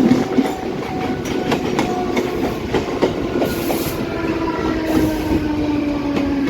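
Mumbai suburban local electric train running, heard from on board: wheels clattering over rail joints with many sharp clicks. A steady whine falls slowly in pitch over the last couple of seconds.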